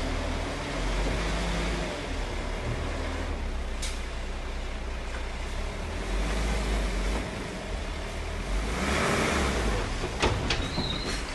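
Heavy diesel construction machinery running with a steady low rumble. About nine seconds in there is a short hiss, and a few sharp knocks follow near the end.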